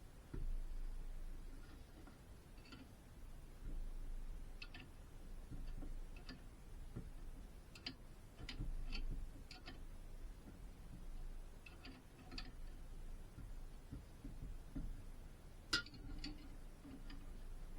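Scattered light metallic clicks and taps, irregularly spaced, from metal parts or hand tools being handled during car suspension work. The sharpest click comes near the end.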